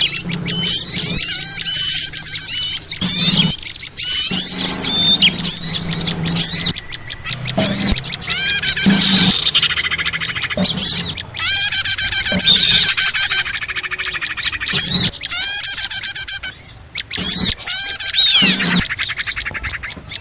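A bird-trapping lure recording: a dense, mixed chorus of small songbirds chirping rapidly, with many short calls and quick rising and falling notes overlapping, broken by a few brief dips.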